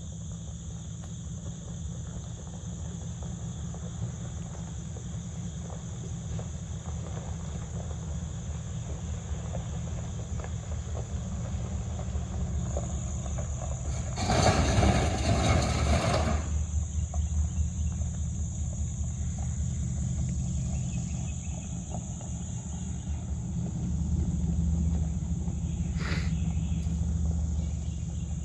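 Truck engine running with its exhaust cut off, giving a low rumble, with crickets chirping steadily over it. About halfway through, a louder rush of noise lasts a couple of seconds.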